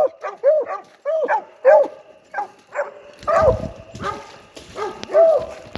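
Coonhound barking in a fast, steady run of short barks, about two to three a second.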